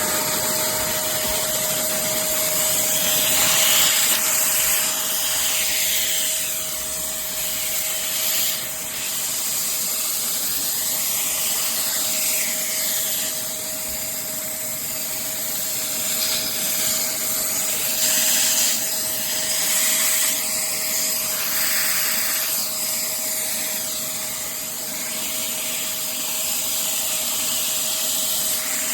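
Vacmaster 8-gallon stainless steel wet/dry shop vacuum running steadily: a constant motor whine under a loud rush of air, the airflow hiss shifting now and then.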